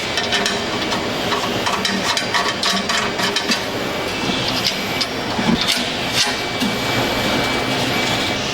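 Metalworking noise in a welding shop: a steady crackling haze full of sharp clicks and metal knocks.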